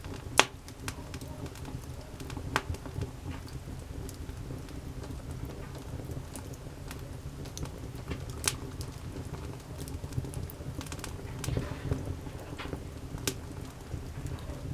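Wood campfire crackling: irregular sharp pops and snaps over a steady low rush of burning, with one loud pop about half a second in.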